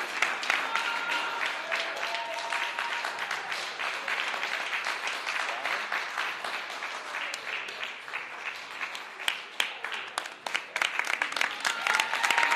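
Audience applauding, dense clapping with a few voices calling out over it; it thins out about eight to ten seconds in, then swells again near the end.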